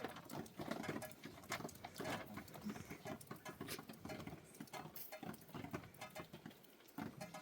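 Irregular patter of many light taps and clicks, quieter for a moment near the end.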